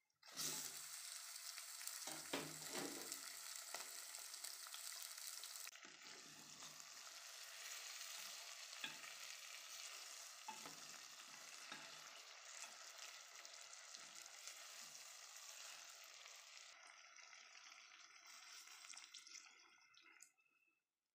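Raw chicken pieces sizzling in hot oil with fried onions, the sizzle starting suddenly as they drop into the pot. A metal ladle knocks and scrapes against the metal pot as they are stirred, and the sizzle eases a little about six seconds in.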